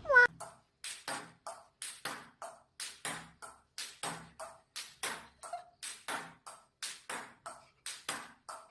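A brief falling squeak, then a fast, even series of light sharp taps, about three a second, each ringing briefly.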